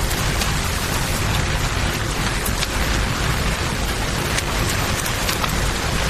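Steady rain falling, blended with the rush of a flowing river, with a few sharp clicks scattered through it.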